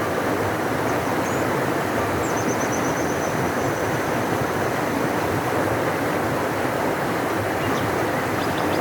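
Large river rushing: a deep, steady wash of moving water with no pauses.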